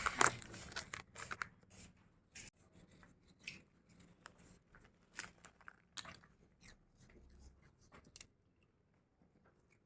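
A kitten chewing and crunching food: irregular sharp crunches, thinning out and stopping about eight seconds in.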